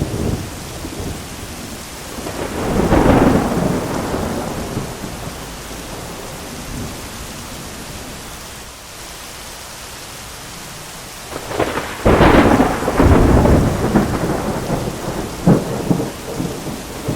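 Steady heavy rain with two rolls of thunder: one swelling and fading a couple of seconds in, and a louder, crackling peal with sharp cracks that starts near the two-thirds mark and rumbles on to the end.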